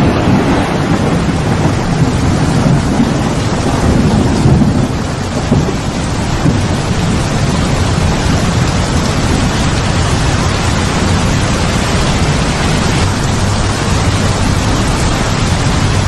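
Heavy rain pouring steadily, with thunder rumbling low in the first few seconds.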